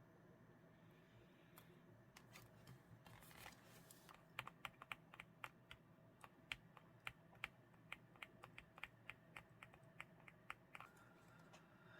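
A quick, irregular run of light clicks and ticks, several a second, over a faint steady hum.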